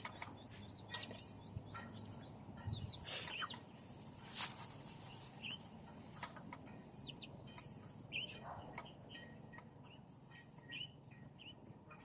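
Small birds chirping and calling in quick, short notes, with a few sharp clicks or knocks among them.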